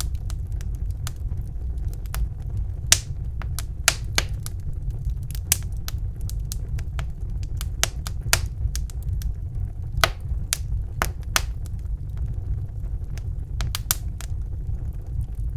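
Wood fire crackling in a fireplace: irregular sharp pops and snaps, a few louder ones standing out, over a steady low rumble from the burning logs.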